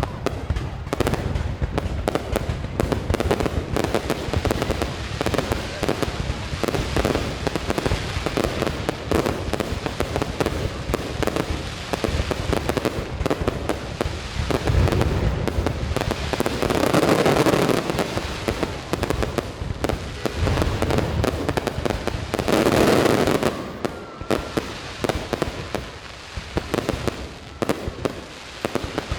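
New Year's Eve fireworks going off: a continuous run of rapid bangs and crackles, with two louder surges about 17 and 23 seconds in.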